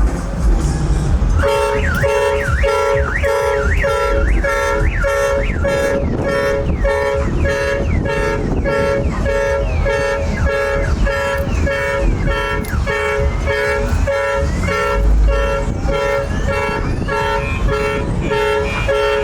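A two-tone car horn honking over and over in a steady rhythm, about two short honks a second, starting about a second and a half in, over a loud low rumble of engines and bass.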